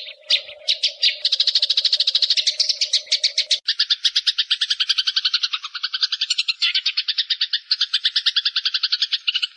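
Eurasian tree sparrows chattering in a fight: a fast, rattling run of high chirps, about ten a second, with a second, lower chattering voice joining after a few seconds.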